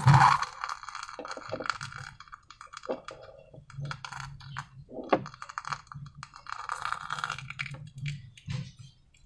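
Slime being worked by hand: a run of small sticky clicks and crackles, with a louder burst right at the start.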